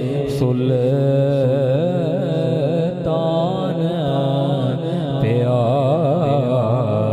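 A voice singing a Punjabi devotional song (naat), long held notes with quick wavering ornamental turns, over a steady low drone.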